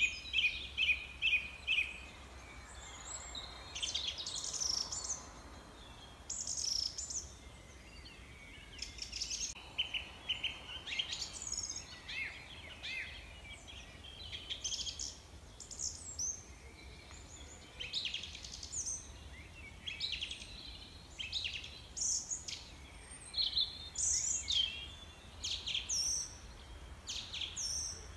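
Small birds singing and chirping, many short high calls overlapping throughout, starting with a quick repeated trill, over a faint steady low hum.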